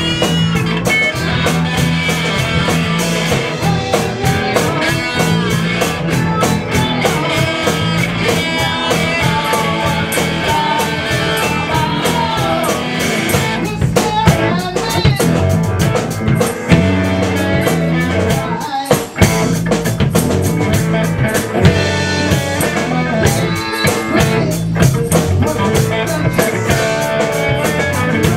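Rock music: a band playing with drum kit and guitar, with a short break about two-thirds of the way through.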